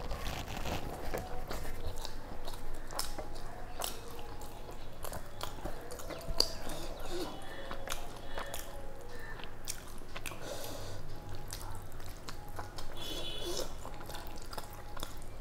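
Close-up chewing and lip-smacking of a person eating rice and chicken curry, with many short, wet mouth clicks.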